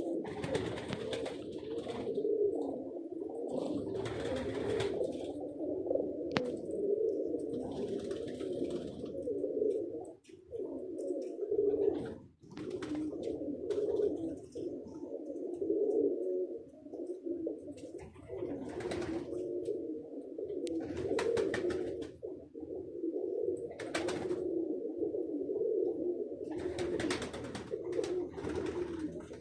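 Several domestic pigeons cooing continuously, their low coos overlapping, with brief hissy noises now and then.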